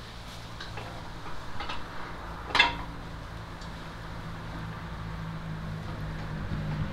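Scattered light metallic clicks and knocks from handling the engine and gearbox parts, with one sharper knock about two and a half seconds in, over a steady low hum.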